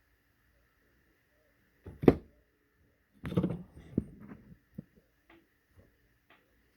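A sharp knock about two seconds in, then a short run of clattering knocks and a few light clicks as parts and tools are handled on a workbench.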